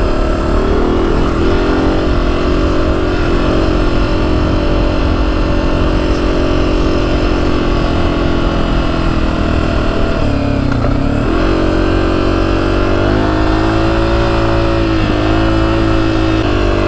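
Honda CRF250F dirt bike's single-cylinder four-stroke engine running under throttle while riding through soft sand. Its pitch dips briefly about ten seconds in, then settles on a higher steady note.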